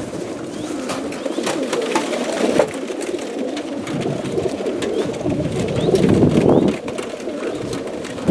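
A large flock of young racing pigeons cooing together in a continuous low murmur, with scattered sharp clicks throughout.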